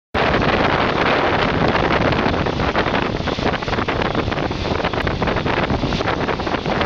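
Wind buffeting the microphone held out of a moving passenger train's window, over the steady running noise and clatter of the train on the rails.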